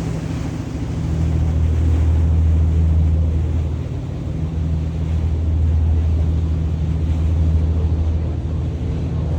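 Harbor tour boat's engine running with a steady low drone.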